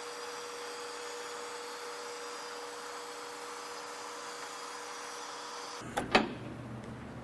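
Steady mechanical hum with one constant tone that stops abruptly about six seconds in, followed by two sharp metallic knocks.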